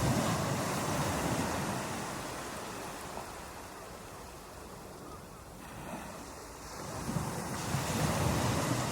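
Ocean waves breaking on a beach: one wave crashes at the start and washes out, the surf eases for a few seconds, and the next wave breaks about seven seconds in.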